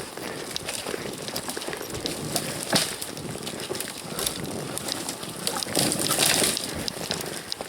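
Dry frozen snow crunching and rustling with scattered sharp clicks, louder for a moment about six seconds in, as a sawn fir trunk is pushed and rocked free in deep snow.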